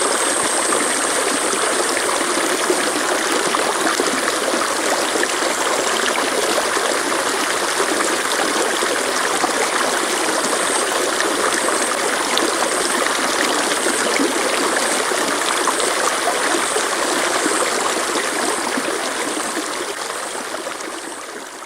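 Stream water flowing in a steady rush, fading out near the end.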